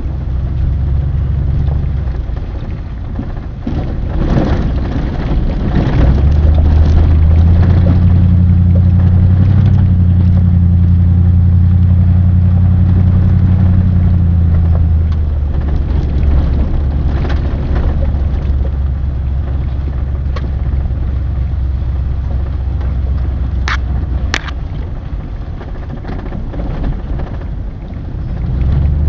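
A vehicle engine drones steadily while driving, with a road rumble underneath. The drone grows louder about six seconds in and eases back after about fifteen seconds. Two sharp clicks come near the end.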